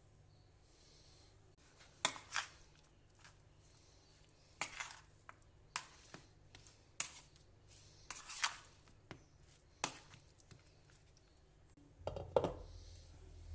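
Kitchen utensils knocking and clinking as food is prepared, in irregular sharp strokes about a second apart, with a duller, heavier thump near the end.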